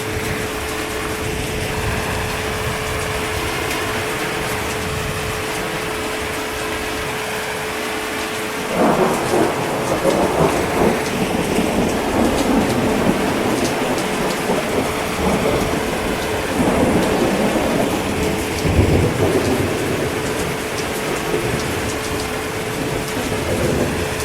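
Steady heavy rain. About a third of the way in, a long roll of thunder sets in and rumbles on in repeated swells, with a deep low boom about three-quarters of the way through.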